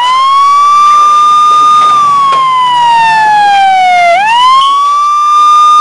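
A wailing siren. It holds a high note, slides slowly down for about two seconds, then swoops quickly back up and holds again.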